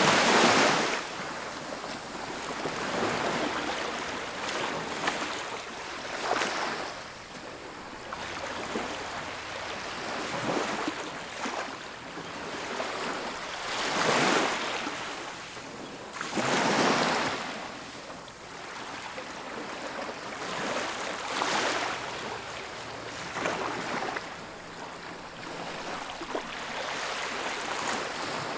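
Ocean waves breaking and washing on a beach, a steady hiss of surf with swells every few seconds, loudest at the start and twice around the middle.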